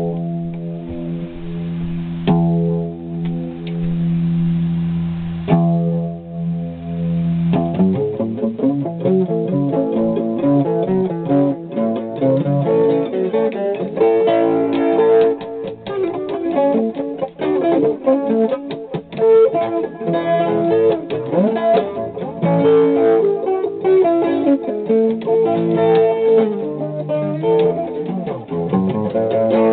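Solo guitar: three chords strummed and left to ring, then from about eight seconds in a busy picked instrumental passage of quick, changing notes.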